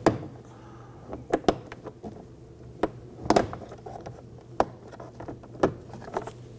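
Plastic trim tool prying the armrest pad away from a 2022 Toyota Camry's front door panel: a string of sharp, uneven plastic clicks and snaps, about eight in all, the loudest a third of the way in.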